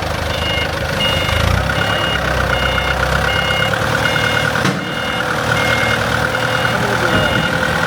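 Heavy machine's diesel engine running steadily, with an electronic warning alarm beeping evenly a little under twice a second over it, like a reversing or travel alarm.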